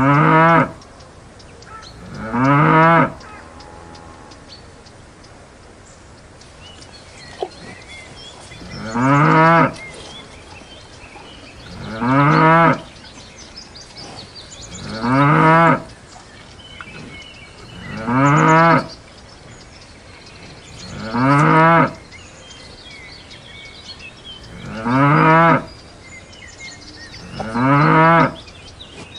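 A cow mooing repeatedly: nine short moos, each about a second long, rising and then falling in pitch. They come roughly every three seconds, with a longer pause after the second call.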